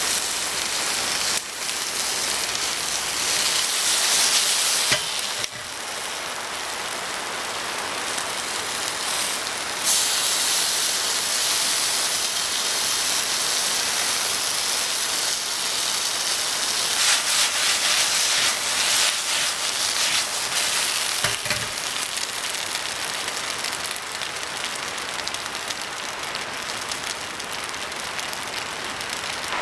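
Sausages, onion and bell peppers sizzling in a frying pan over a gas camping stove, the sizzle swelling louder several times, with a few light knocks. Rain falls in the background.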